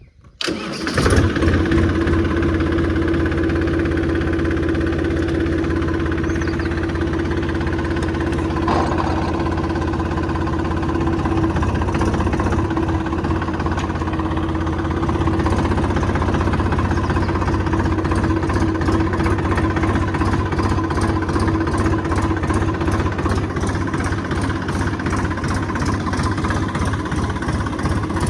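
Tractor engine starting about a second in, then running steadily at idle.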